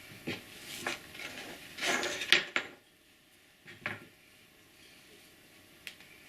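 Clay-working hand tools knocking and clattering against clay and the work table while the clay is scored and slipped for joining. A couple of light knocks, a louder run of clatter about two seconds in, and another knock near four seconds.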